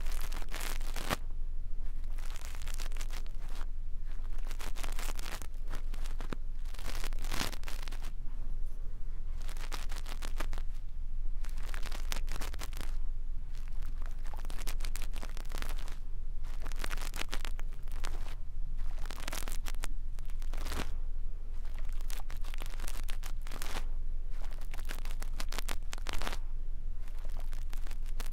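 Soft brush rubbing and scratching on a microphone for ASMR ear cleaning: repeated, irregular rasping strokes, over a steady low hum.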